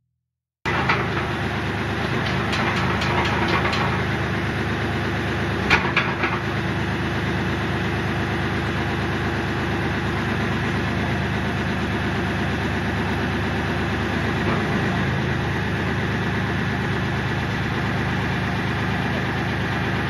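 Kioti CK4010SE tractor's diesel engine running steadily at idle, with a few light clicks in the first few seconds and one sharp knock about six seconds in.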